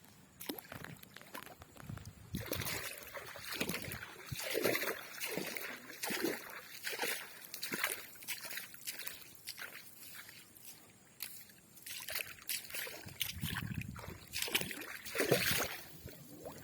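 River water sloshing and splashing in irregular bursts, with a few short knocks.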